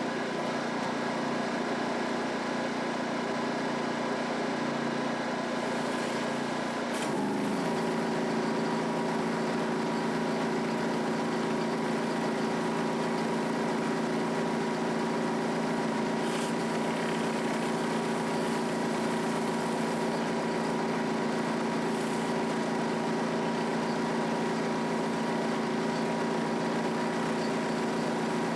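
Gas-engine pressure washer (3,500 PSI, 5.5 gallons per minute) running steadily with a hissing spray noise. About seven seconds in, its note steps slightly higher and holds there.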